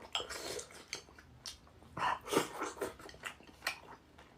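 Close-up eating sounds of someone chewing chicken in chili-oil sauce: a string of short, wet mouth noises and a few small clicks, loudest about two seconds in.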